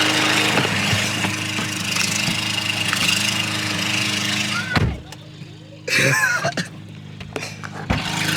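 A car engine idling steadily amid outdoor noise, then a sharp thump about five seconds in after which the sound drops away to a much quieter stretch, with another thump near the end.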